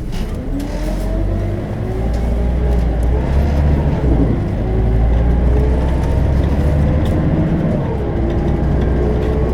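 Scania DC9 five-cylinder turbodiesel of a Scania K270UB bus accelerating, heard from inside the bus. The engine note rises and falls back as the ZF Ecomat automatic gearbox shifts up about four seconds in and again near the end.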